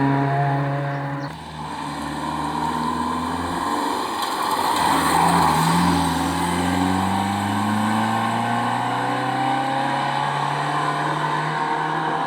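A rally car's engine under hard acceleration. There is a sudden dip about a second in, like a lift or gear change, then the pitch climbs steadily as it pulls, loudest near the middle as it passes close.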